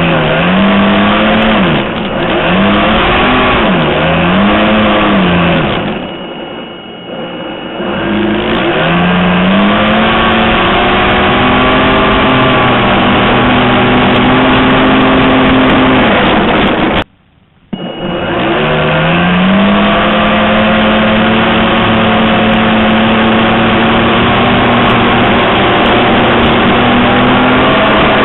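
Astroflight 625G geared electric motor and propeller of an RC plane, heard from a camera mounted on the airframe. It runs with a steady pitched drone that dips and rises with the throttle several times, is throttled back about six seconds in, and cuts out for a moment near the seventeen-second mark. It then rises again to a steady cruise.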